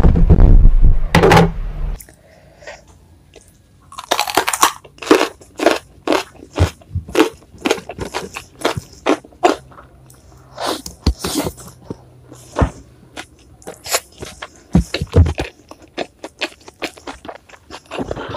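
Close-miked chewing of crunchy food, with sharp crunches two or three times a second. It follows a loud low thumping of handling noise in the first two seconds.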